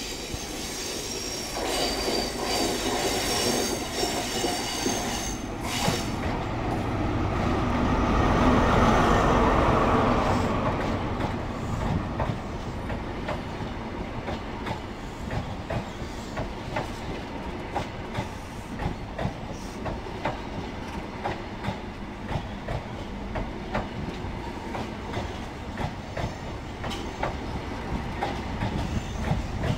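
An InterCity 125 (HST) diesel power car runs past close by. Its sound swells to a peak about nine seconds in, with high wheel squeal in the first few seconds as the train comes round the curve. Mark 3 coaches then roll by with a steady rhythm of wheel clicks over the rail joints.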